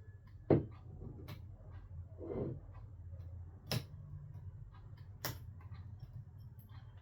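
A few sharp clicks and knocks, the loudest about half a second in, with a brief scuffing rustle between them, over a low steady hum: a smartphone and small repair tools being handled on a workbench just after a replacement display has been seated.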